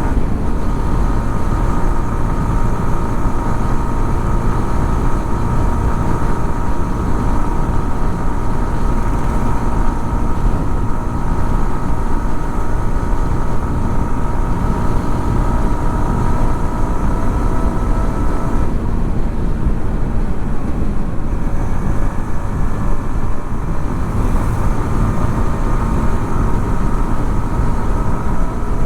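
Yamaha XSR 155's single-cylinder four-stroke engine running at steady revs over a heavy low rumble. About two-thirds of the way through, the engine's steady note drops away and changes, as when the throttle is eased or a gear is changed.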